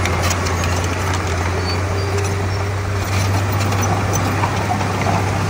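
Komatsu D31P bulldozer's diesel engine running steadily, a constant low drone under a broad mechanical noise.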